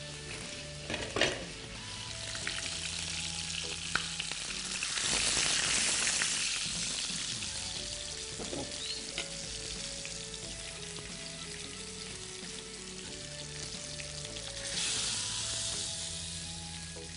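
Bitter gourds (karela) sizzling as they fry in oil in a pan, turned now and then with a utensil that gives a few light clicks. The sizzle swells about five seconds in and again near the end.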